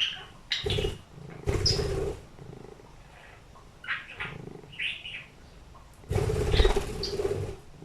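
Budgerigar chirping in short high calls, broken by three loud rushing bursts of noise about half a second in, a second and a half in, and near the end.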